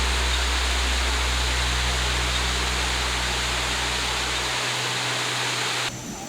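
Steady rushing water of a waterfall, an even hiss with a low hum under it that stops about four and a half seconds in. The sound cuts off abruptly near the end to a quieter background.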